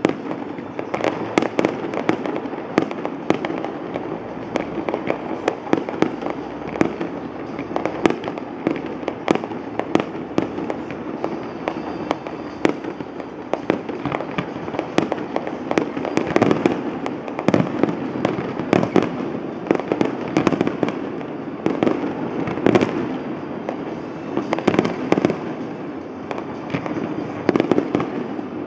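A fireworks display going off in the distance: an unbroken run of bangs and crackles, two or three a second, over a constant rumble.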